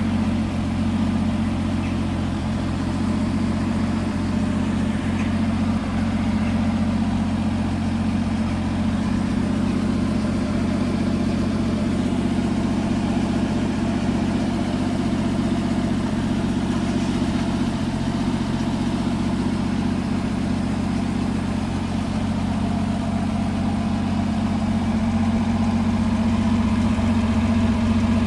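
Triumph Vitesse 2-litre straight-six engine in a Herald-based kit car, idling steadily.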